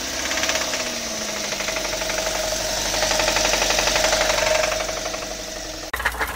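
Car engine running with a rapid, steady knocking from inside the motor, typical of a worn connecting-rod or crankshaft bearing (rod knock). Near the end it cuts to a second knocking engine with sharper, more separate knocks.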